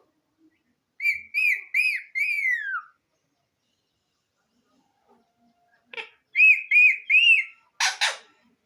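Indian ringneck parrot whistling a run of four arching notes about a second in, the last one gliding down. Near the end it gives three more arching whistles, followed by two short harsh bursts.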